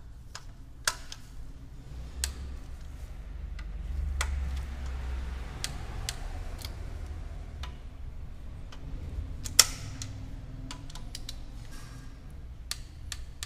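A torque wrench tightening cylinder head bolts in sequence: scattered sharp metallic clicks with lighter ticking between them. The loudest click comes about nine and a half seconds in.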